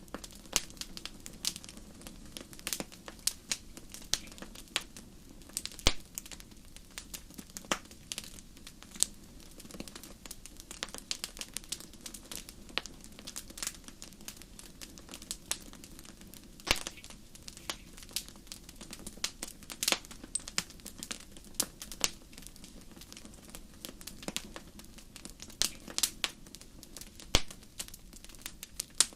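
Wood fire crackling, with irregular sharp pops and snaps, a few louder ones, over a faint steady low rumble of the flames.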